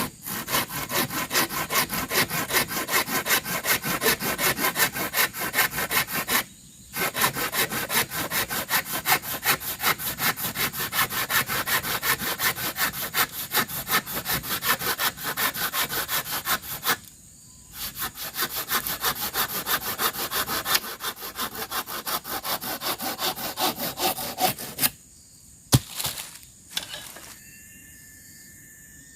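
Hand saw cutting through bamboo in quick back-and-forth strokes, about three a second, pausing briefly twice. The sawing stops near the end, followed by a single sharp knock.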